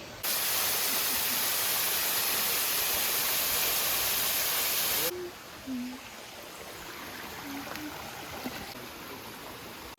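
Loud, steady rushing water that cuts in abruptly and cuts off about five seconds in, followed by quieter forest ambience with a few faint voices.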